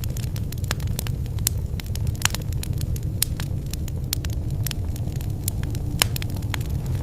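Wood fire burning in a fireplace: a steady low rumble of the flames with irregular sharp crackles and pops, one louder pop about six seconds in.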